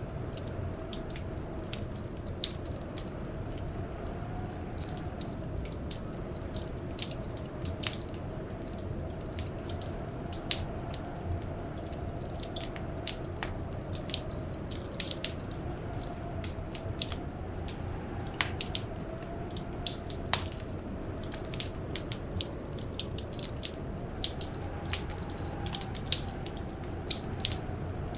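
Wood fire crackling, with irregular sharp pops and snaps over a steady low rumble, and a faint wavering whistle underneath that slowly rises and falls like blizzard wind.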